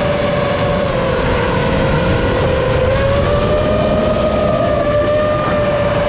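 Electric motors and propellers of a 7-inch FPV quadcopter (EMAX ECO II 2806 1500kv brushless motors) whining in flight over a rush of wind noise. The whine dips slightly in pitch a couple of seconds in, then climbs back as the throttle changes.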